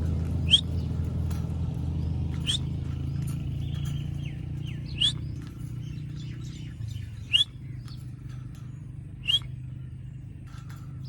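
Indian ringneck parakeet giving short, sharp rising screeches, five of them spaced about two seconds apart, with softer chirps in between. A low, steady rumble runs underneath.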